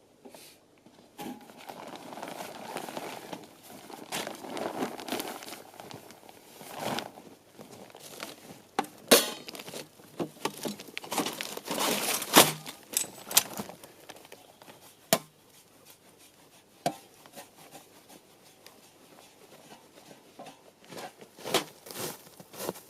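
Tent fabric rustling and crinkling as it is unpacked and handled, with scattered sharp clicks and knocks, the loudest about nine and twelve seconds in.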